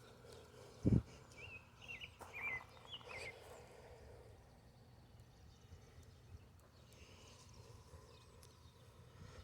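Quiet outdoor ambience with a faint low rumble: a single low thump about a second in, then a few short, quick chirping bird calls.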